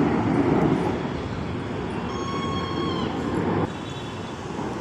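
Aircraft flying past overhead: a broad, rushing roar that fades as it goes. About two seconds in, a brief high steady tone rides over it, and the level drops suddenly about three and a half seconds in.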